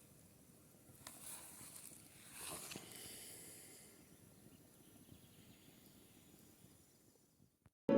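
Faint outdoor ambience with a couple of soft rustling hisses in the first three seconds, fading almost to silence; music cuts in right at the end.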